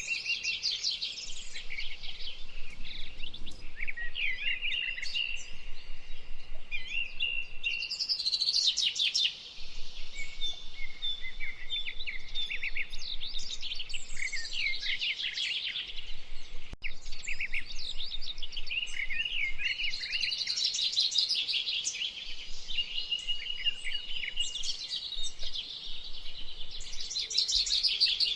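Several songbirds singing at once, their songs overlapping in a continuous chorus of quick high trills and whistled notes.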